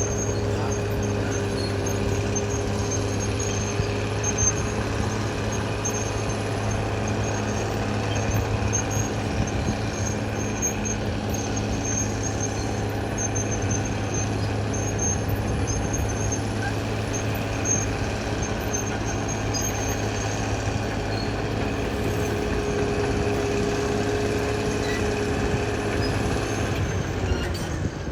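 Caterpillar D6R XL bulldozer's diesel engine running steadily while working, with faint intermittent high squeaks.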